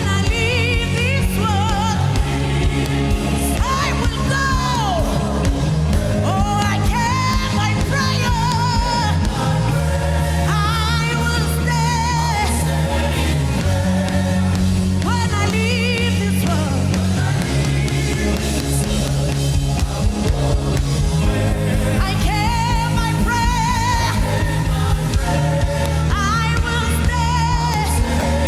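Gospel worship music: a solo singing voice with wide vibrato, held and sliding notes, over sustained keyboard and bass chords that change every few seconds.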